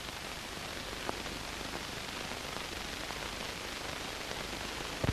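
Steady hiss and static with no other sound standing out, broken only by a faint click about a second in and a couple of small ticks near the end.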